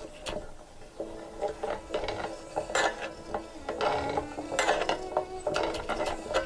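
Hand tools working on the metal parts of an old coffee grinder: irregular clicks, ratcheting and clinks of metal on metal.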